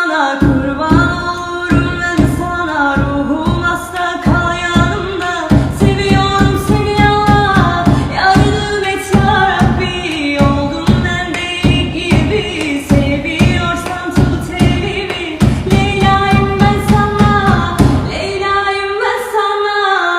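A voice singing a melody in long, gliding notes over music with a steady, regular beat.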